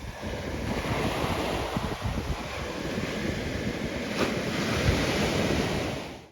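Ocean surf breaking, with wind buffeting the microphone in gusts; the sound fades out near the end.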